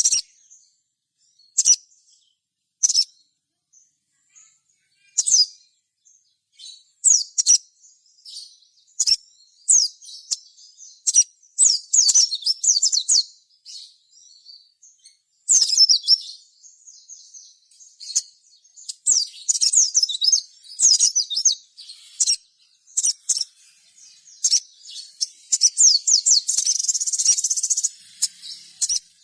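Spiderhunter (sogon) calling: sharp, high chirps at first spaced a second or two apart, then coming in quick rattling runs, the densest and longest run near the end.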